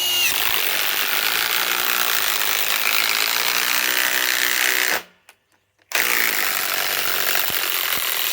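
Ryobi PSBIW25 compact cordless impact wrench hammering a screw into wood under heavy load. It stops about five seconds in and starts again about a second later.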